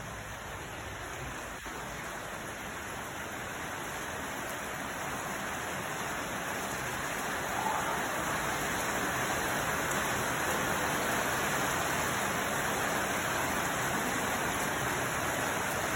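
Steady rush of falling water, a dense even hiss that grows gradually louder over the first half and then holds level, with one faint click about one and a half seconds in.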